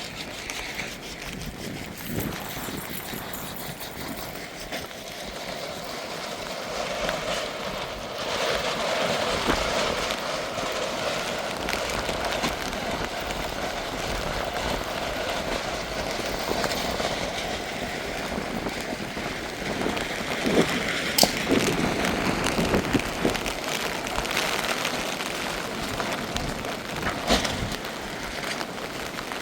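Steady rain falling, with a few sharp knocks about two-thirds of the way through and once more near the end.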